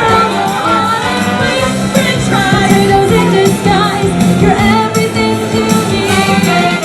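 A female vocal group singing a song with instrumental backing.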